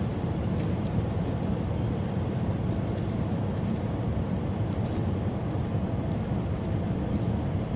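Steady road and engine drone inside a semi-truck's cab at highway cruising speed, with a faint high whine drifting slowly lower in pitch.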